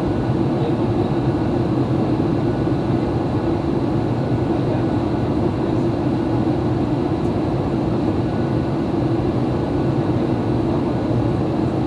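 Steady cabin noise inside a Boeing 737-800 in flight: an even drone of engines and airflow, with a low rumble and a strong band in the low middle.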